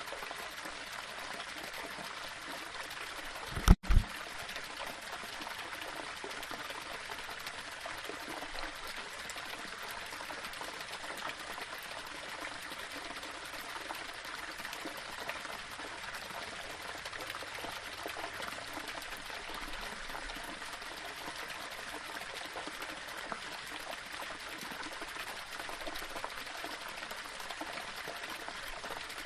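Small waterfall running over rocks: a steady rush of falling water. A little under four seconds in, the sound drops out for an instant and a loud, short double thump breaks through.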